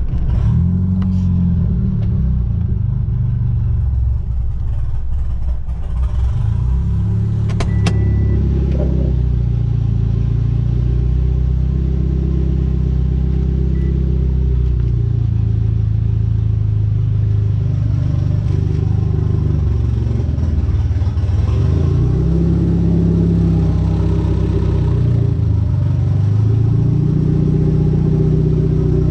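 Chrysler Conquest's turbocharged G54B four-cylinder engine running while the car is driven, its pitch rising and falling several times as the revs change.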